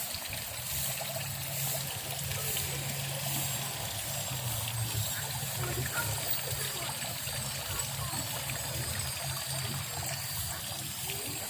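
Water trickling steadily, over a steady low hum.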